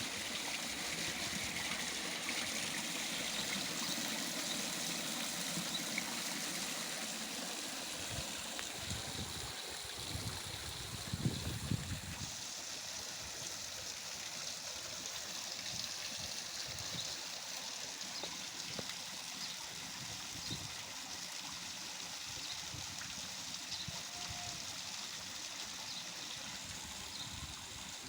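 Water from a garden waterfall splashing and trickling steadily into a koi pond, with a few brief low bumps about ten seconds in.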